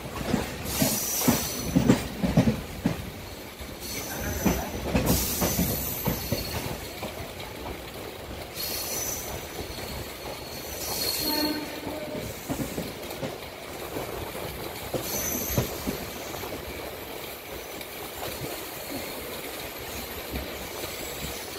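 MEMU electric passenger train running on the rails, heard from on board. There is a continuous rumble and clatter of wheels over the track, with irregular knocks in the first few seconds and thin, high wheel squeals.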